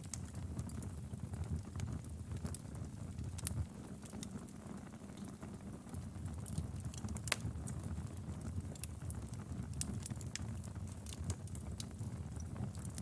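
Wood fire burning in a fireplace: a steady low rumble of flames with irregular sharp crackles and pops, two louder pops about three and a half and seven seconds in.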